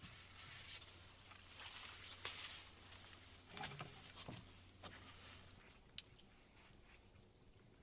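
Soft rustling and scraping of close handling, with one sharp click about six seconds in.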